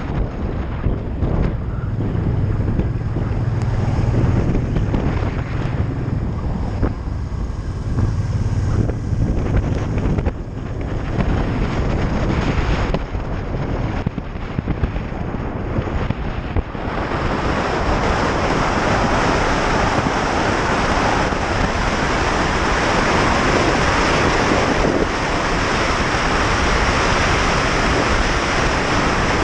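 Wind rushing over the microphone of a moving motorcycle, with a low engine drone underneath for the first ten seconds or so. About seventeen seconds in the wind noise grows louder and hissier, as with rising speed.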